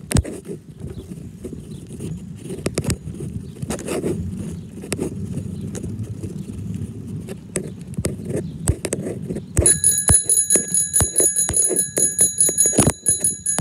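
Low rumble and clatter of a ride-on zoo train running along its track. About ten seconds in, a bell starts ringing rapidly and steadily over the rumble.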